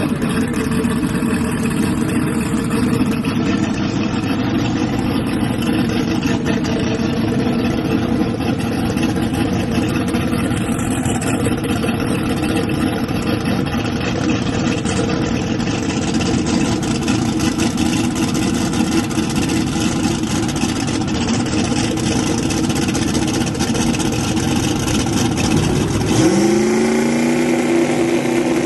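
Race car engine running steadily, then revving up quickly near the end and holding at a higher speed.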